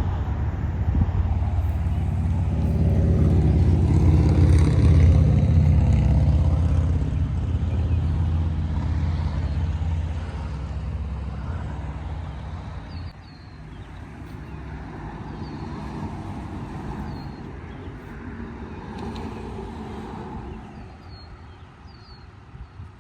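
Engine running with a low, steady drone. It is loudest in the first few seconds, fades, then drops off abruptly about 13 seconds in to a quieter running sound. Short high chirps come in near the end.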